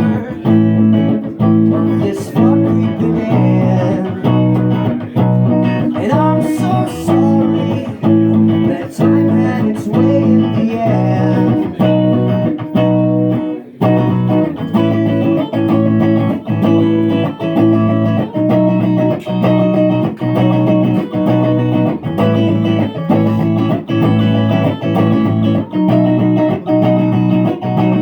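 Electric guitar strumming a repeating chord pattern in an instrumental passage, with a brief break about halfway through.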